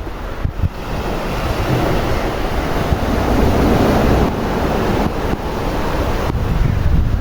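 Sea waves washing in, a steady rushing noise that swells and ebbs, with wind buffeting the microphone.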